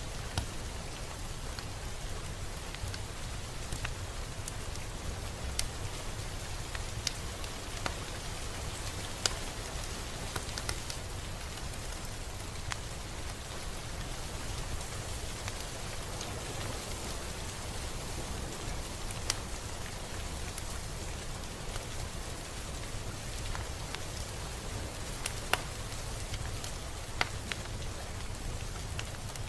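Steady rain falling, an even hiss with a low rumble beneath and individual drops ticking sharply every second or so.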